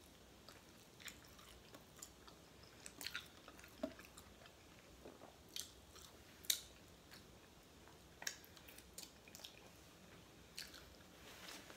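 Quiet close-up chewing and biting of crispy baked chicken wings, with scattered soft crunches and mouth clicks; the sharpest come about four and six and a half seconds in.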